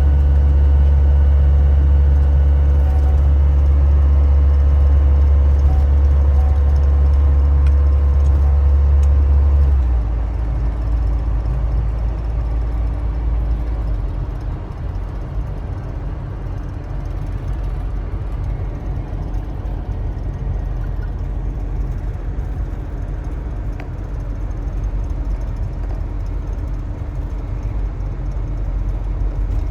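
A car driving, with a loud, steady low rumble of engine and road noise. The rumble drops and turns rougher about ten seconds in.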